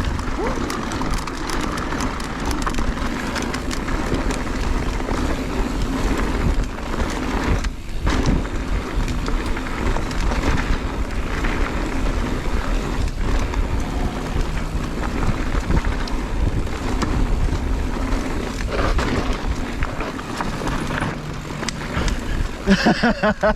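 Mountain bike riding fast downhill on a rocky dirt trail: wind buffeting the camera microphone and tyres rolling, with frequent rattles and clicks as the bike runs over rocks.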